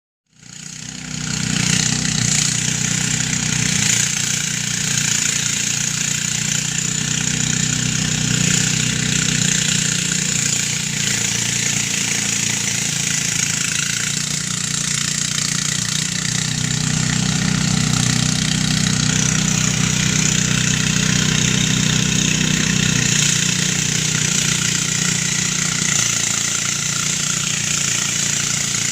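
Motor-driven rice thresher running steadily: a small engine's drone with a wide hiss above it. It sets in within the first second and holds unchanged.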